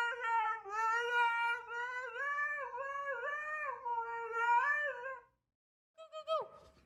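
A cat yowling in one long, wavering, drawn-out call that stops suddenly about five seconds in. After a brief silence comes a short meow that falls in pitch.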